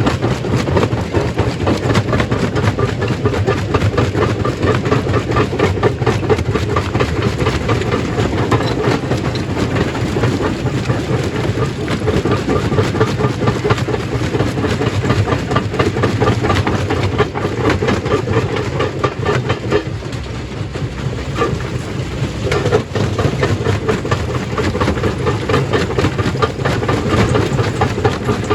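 Stone crushing machine running steadily, a heavy low hum under a dense rattle of rock being broken and tumbling, easing briefly about twenty seconds in.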